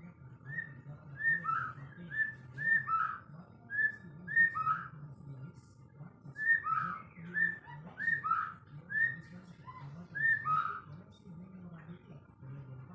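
White-rumped shama (murai batu) singing: a run of clear whistled notes, each a short high note dropping to a lower one. The notes come in two bursts of about four seconds, with a short pause between them.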